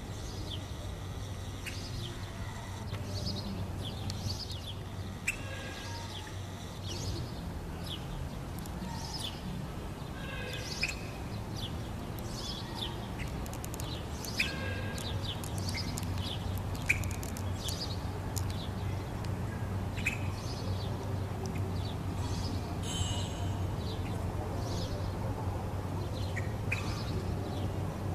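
Many birds chirping, with short overlapping calls scattered throughout, over a steady low hum.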